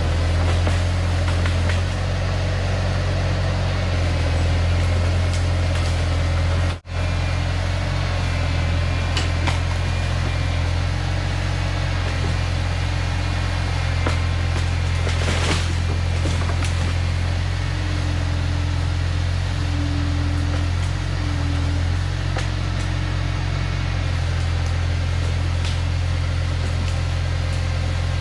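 Bobcat T250 skid-steer's diesel engine running steadily with a constant low drone, with a split-second dropout about seven seconds in.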